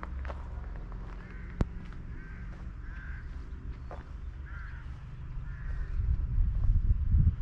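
Birds calling, a run of short calls about once a second, over the low rumble of wind on the microphone, which grows stronger near the end. A single sharp click about one and a half seconds in.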